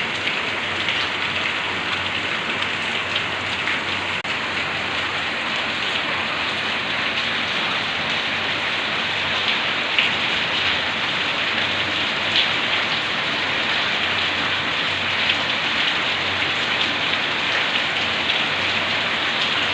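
Steady rain falling: a dense, even hiss with scattered sharper drop ticks, a few of them louder.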